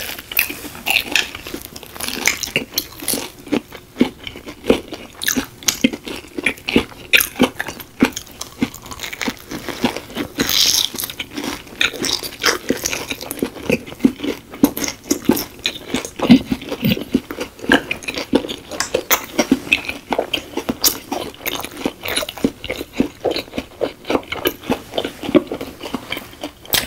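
Two people chewing fried, batter-coated Korean corn dogs close to a microphone: a dense, irregular run of crisp crunches and bites.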